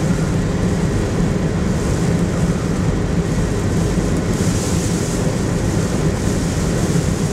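Steady low rumble of engine and road noise heard from inside a moving car in a sandstorm. A brief burst of louder hiss comes about four and a half seconds in.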